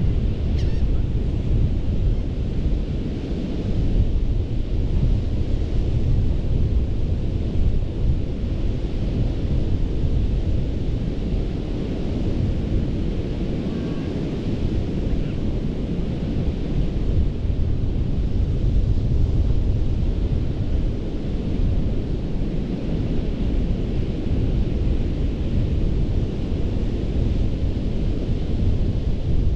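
Gulf surf breaking and washing on a sandy beach, its hiss swelling and fading every few seconds, under a heavy low rumble of wind buffeting the microphone.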